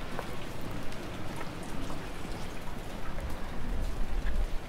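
Rain falling steadily, an even hiss with many small individual drops ticking.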